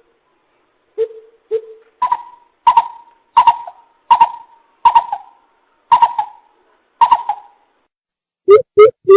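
Coucal (bìm bịp) calling: two deep hoots, then a slow series of about seven higher, sharper notes spaced under a second apart. Near the end a quick run of deep hoots begins, about three a second.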